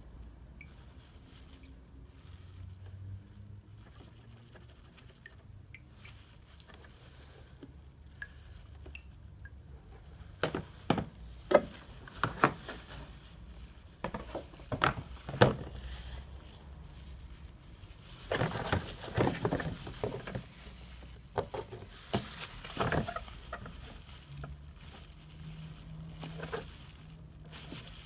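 Sharp clicks and knocks of parts and tools being handled, sparse at first and busiest in the second half, with a stretch of rustling about two-thirds of the way through.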